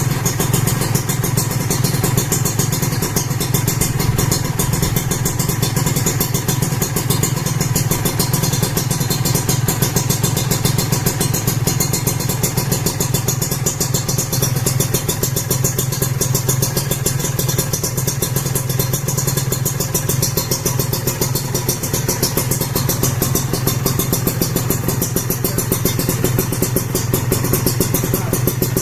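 Kawasaki Ninja 150 RR two-stroke single-cylinder engine running steadily at an even low speed through an Aitech expansion chamber and a DTX51 aluminium silencer.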